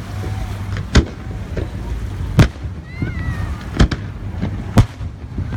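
Aerial fireworks bursting: four loud sharp bangs about a second apart, with smaller pops between them, over a steady low rumble.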